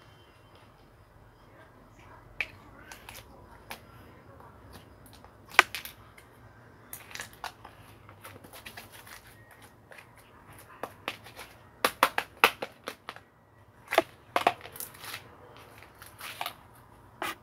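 Irregular clicks and short crackling noises of objects being handled, coming more often in the second half.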